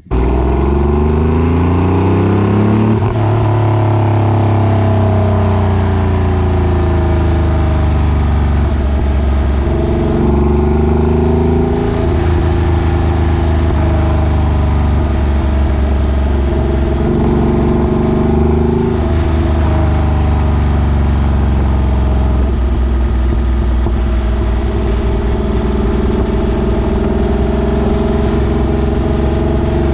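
Porsche 964's air-cooled flat-six running through a newly fitted exhaust. It falls in pitch from a rev over the first few seconds, then runs mostly steady with a couple of brief rises and falls in the middle.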